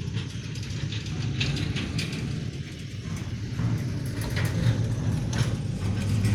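Heavy truck driving past, a low engine drone with its body and load rattling, growing louder toward the end.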